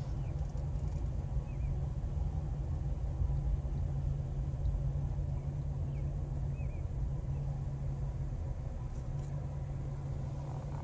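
Steady low rumble of an idling vehicle engine, with a few faint, short high chirps over it.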